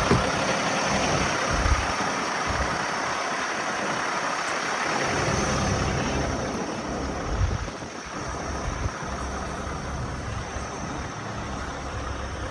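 Scania R660's 16-litre V8 diesel engine running steadily, getting somewhat quieter about eight seconds in.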